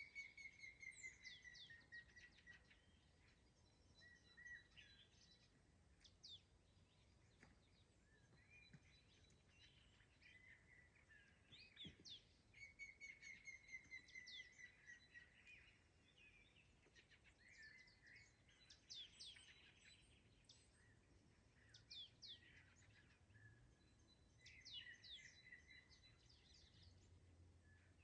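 Faint songbirds singing in a forest. A fast trill of repeated notes comes back about every ten to twelve seconds, among thin, high notes that fall steeply in pitch.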